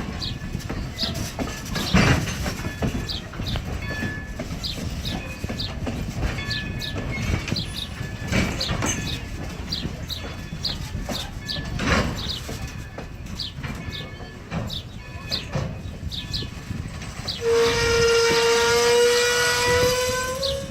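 Strasburg Rail Road No. 90, a 1924 Baldwin 2-10-0 steam locomotive, rolling in with its train, with a steady rumble and occasional heavy knocks. About three seconds before the end its steam whistle blows one long note that creeps slightly up in pitch.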